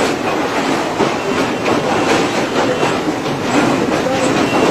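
Passenger train running on its rails, its wheels clattering steadily over the track.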